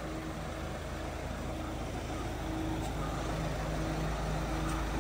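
Mahindra Thar SUV's engine running steadily at low revs, a low hum, as the vehicle rolls slowly backward.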